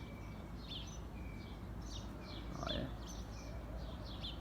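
Small birds chirping: short, sharp, high chirps repeated about two to three times a second over a steady low background rumble.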